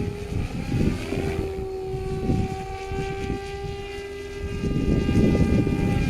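Goosky RS5 electric RC helicopter in flight, its motor and rotor giving a steady whine over heavy wind buffeting on the microphone.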